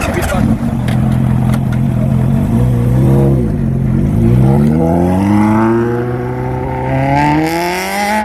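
Motorcycle engine running, dipping briefly about three seconds in, then rising steadily in pitch for about four seconds as the bike accelerates, dropping back at the end.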